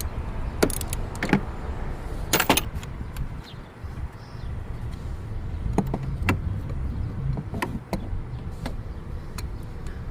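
Scattered sharp clicks and knocks of hands and tools working on a car battery's terminals and hold-down, over a steady low rumble. The loudest knock comes about two and a half seconds in.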